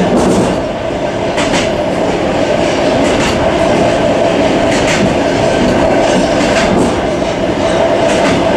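Suburban passenger train running on jointed track, heard from inside the carriage vestibule: a steady running noise with a constant hum, and the wheels clacking over rail joints every second and a half or so.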